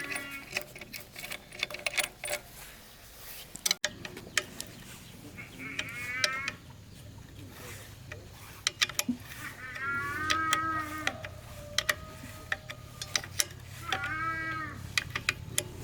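Drawn-out animal calls, mooing-like and arching in pitch, about three times, over scattered sharp clicks and taps.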